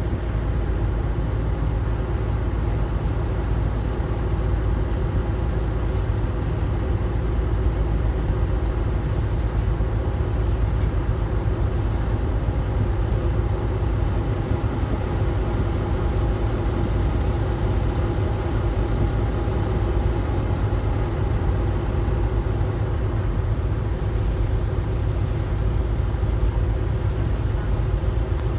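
A boat's engine running steadily, with a low rumble.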